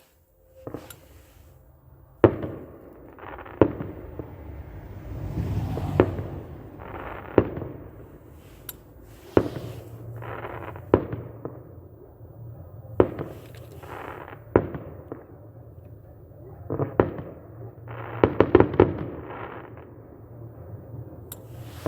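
Festive fireworks salute: shells bursting in sharp bangs every second or two, with a rumble between them and a quick cluster of bangs near the end.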